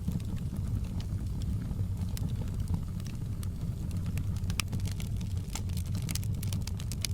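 Fireplace fire crackling: sharp pops and snaps over a steady low rumble, the pops coming thicker in the second half.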